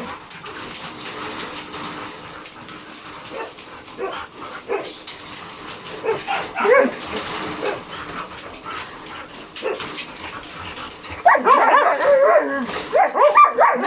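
Dogs whining and yipping in excitement: a few short calls about six seconds in, then a dense run of overlapping high whines and yelps over the last couple of seconds.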